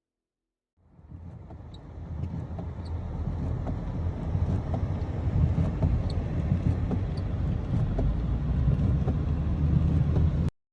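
Road noise of a moving car heard from inside the vehicle: a steady low rumble of engine and tyres. It starts about a second in, grows louder over the next few seconds, and cuts off suddenly near the end.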